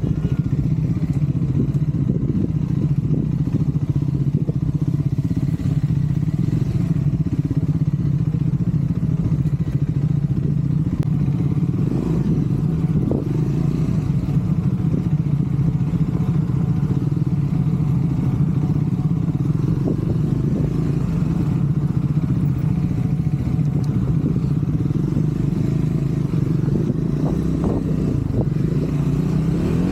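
Triumph Scrambler 400 X's single-cylinder engine running steadily while the motorcycle is ridden, its pitch rising briefly near the end.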